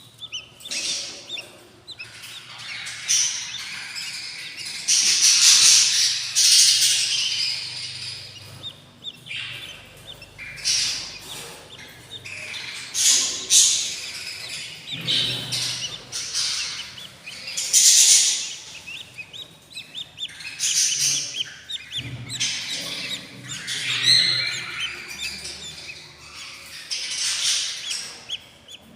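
Eight-day-old budgerigar chicks in a nest box giving hungry begging calls: harsh, raspy cries coming in repeated bursts of a second or two, one after another.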